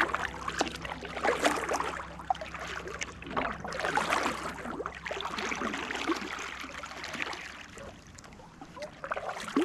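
Water splashing and gurgling against a fishing kayak in uneven bursts, quieter in the last couple of seconds.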